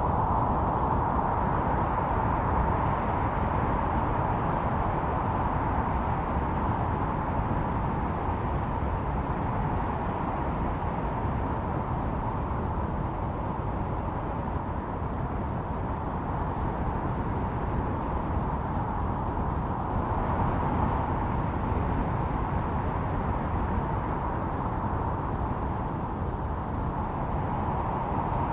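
Snowstorm wind blowing steadily over a low rumble, with a howling whistle that swells, eases through the middle and swells again near the end.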